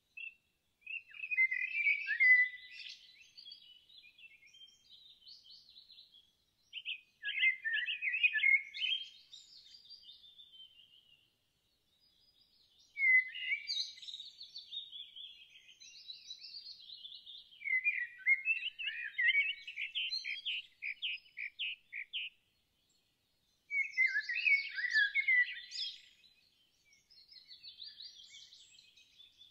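A songbird singing in short bursts of quick, twittering notes, about five phrases of two to three seconds each, separated by pauses of a few seconds.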